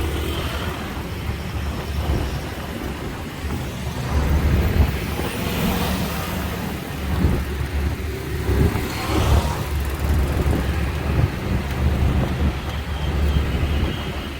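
Bus engine rumble and road noise heard from aboard the moving bus, with a rushing noise that swells twice.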